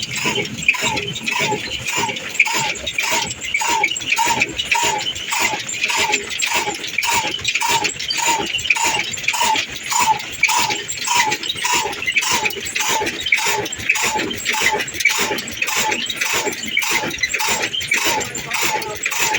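Old diesel engine running slowly and steadily, with an even beat of about two firing strokes a second.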